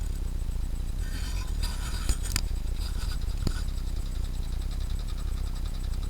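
Small experimental thermoacoustic Stirling engine running with a steady low hum, with a few sharp clicks and faint high tones between about one and three and a half seconds in.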